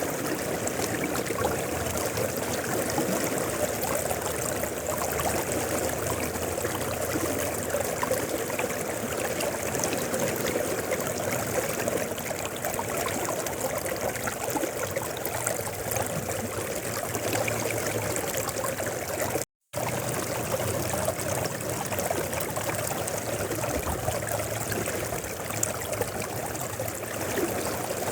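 A mountain river flowing, a steady rush of water, broken once about 19 seconds in by a split-second dropout to silence.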